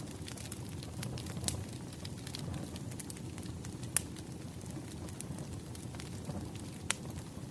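Wood fire burning: a steady low rumble with scattered sharp crackles and pops, a few louder snaps among them.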